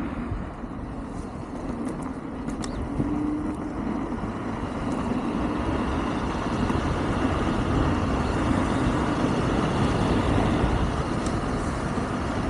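Wind rushing over the microphone and road noise from a Wolf King GT Pro electric scooter being ridden, with a faint steady hum. A few light clicks come about two to three seconds in, and the rush grows a little louder after that.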